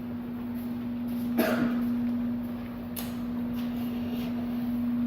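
A steady hum held at one pitch, with a short vocal sound about a second and a half in and a sharp click about three seconds in.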